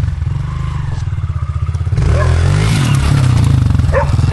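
Small single-cylinder pit bike engine running at low revs, then revving up harder about two seconds in, its pitch rising and falling as the bike is ridden up onto a tree.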